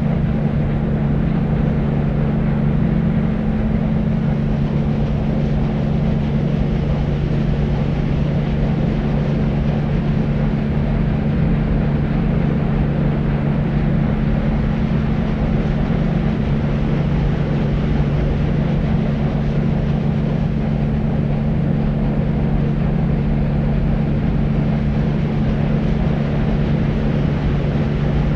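Deep white noise for sleep: a steady, even rushing noise weighted toward the low end, with a constant low hum running under it.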